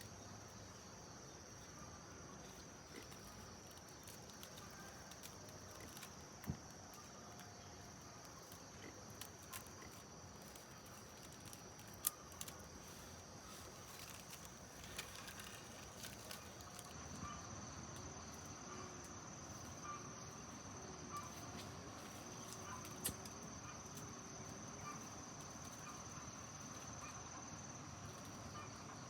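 Crickets or other insects keep up a steady, faint, high-pitched drone. Scattered faint clicks and a few sharper knocks sound over it, the sharpest about twelve seconds in.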